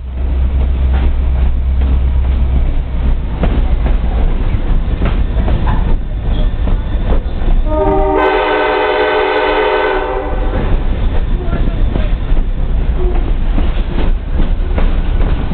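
Passenger train rolling along the track, its steady rumble marked by regular clicks of the wheels over the rail joints. About halfway through, the locomotive's horn sounds one long blast of about three seconds, a chord of several notes.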